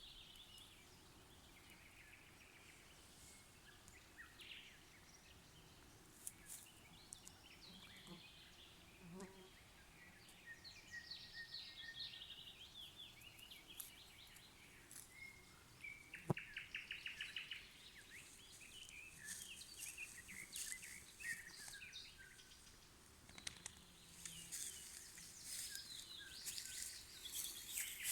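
Nightingale singing: faint phrases of rapid trills, quick repeated notes and short whistles, with pauses between, louder from about halfway through. One sharp click about sixteen seconds in.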